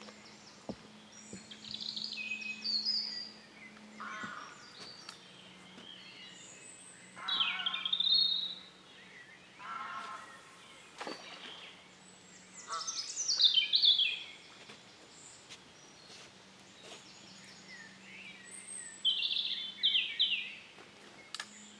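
Wild birds singing and calling in short, repeated chirping phrases, with several different calls one after another and quieter gaps between them.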